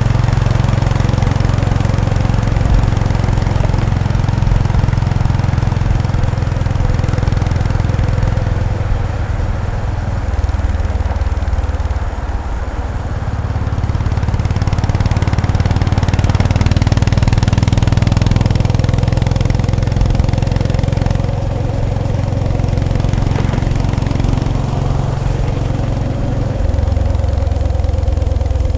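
Honda GB350S (CB350RS) single-cylinder engine and exhaust running. The sound dips in level for a couple of seconds about eleven seconds in, then comes back up.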